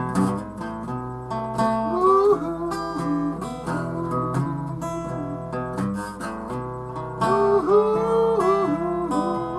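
Acoustic guitar playing an instrumental break in a country-folk song, steady strummed and picked chords, with a sliding melody line over the chords twice.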